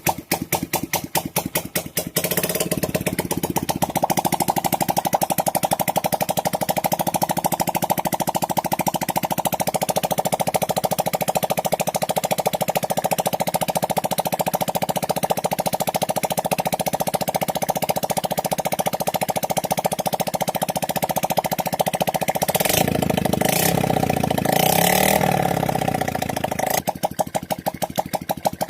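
Single-cylinder four-stroke motorcycle engine of a Hero Glamour, freshly fitted, running on its own. It starts at a slow idle with distinct firing beats and picks up to a faster steady run a few seconds in. Near the end it is blipped briefly, then drops back to a slow, loping idle.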